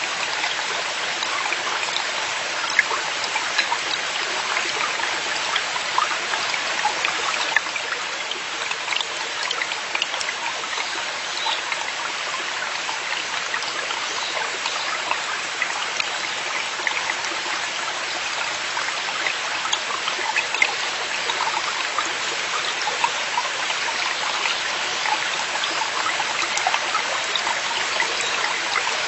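Forest valley stream running: a steady rush of water with many small splashes and trickles.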